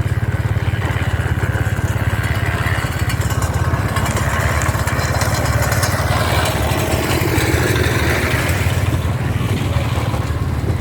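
Motorcycle engine running steadily at cruising speed while riding, with a steady hiss over it.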